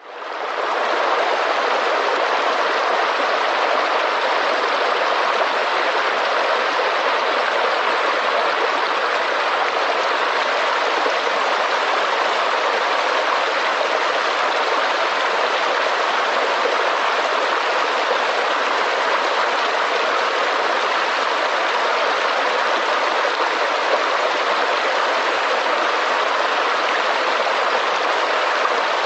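Steady rushing of a flowing river or stream over rocks, a continuous even water noise that fades in over the first second.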